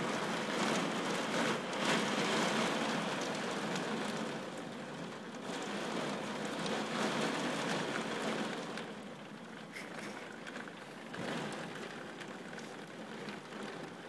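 Torrential rain pouring down onto a street and the surfaces around it: a dense, steady hiss of falling water. It is heaviest in the first few seconds and eases slightly in the second half.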